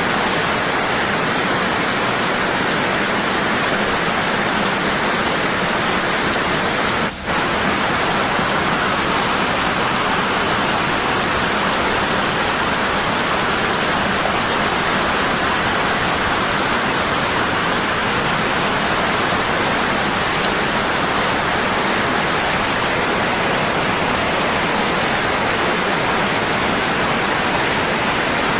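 Waterfall falling steadily and strongly, an even rushing of water with one brief dip in level about seven seconds in.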